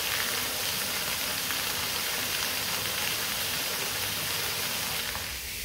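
Steady rush of a waterfall, an even hiss of falling water with no distinct events.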